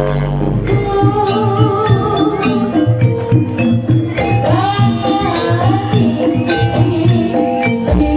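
Javanese jaranan accompaniment music played live: hand drums and jingling percussion with a wavering melody line over them.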